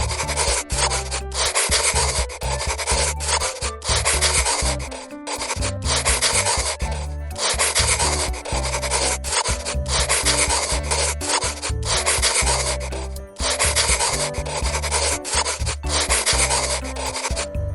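A pen or marker scribbling hard on paper, in repeated spells of a second or two with brief breaks between strokes, with faint music underneath.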